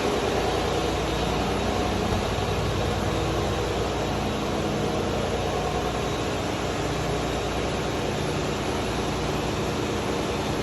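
Ship's main diesel engine being air-blown: compressed starting air turns the engine over and rushes out of the open indicator cocks in a steady, loud hiss, easing slightly in level, over engine-room machinery noise.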